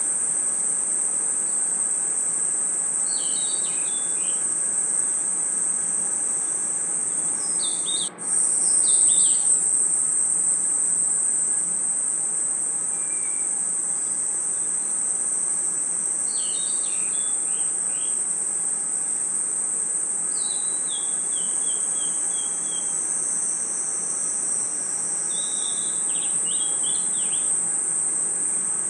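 A dense, steady, high-pitched chorus of night crickets and insects, with short bursts of lower chirps every few seconds. The sound drops out briefly about eight seconds in.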